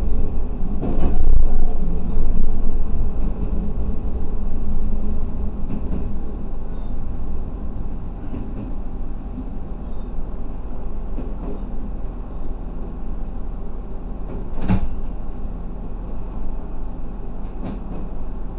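TH2100 diesel railcar running along the line, heard inside the cab: a steady engine and wheel-on-rail rumble, louder in the first few seconds and then easing. A few sharp knocks come through, the strongest about fifteen seconds in.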